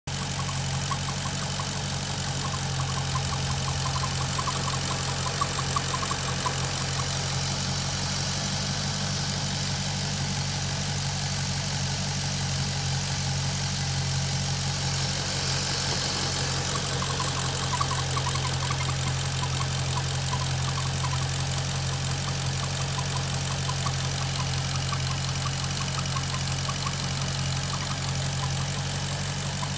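Maserati GranTurismo V8 idling hot, with a fast light ticking over the steady engine note. This is the strange noise that the owner says comes only at operating temperature, is absent when the engine is cold and goes away when the oil dipstick is pulled.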